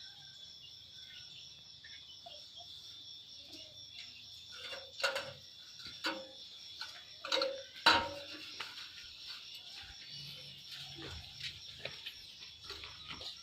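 A steady high-pitched insect trill, typical of crickets, with a few short bird chirps. Several sharp knocks come about five seconds in and again around seven and a half to eight seconds.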